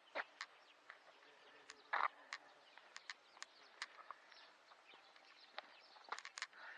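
Birds chirping: scattered short calls and chirps, some sliding in pitch, with one louder call about two seconds in.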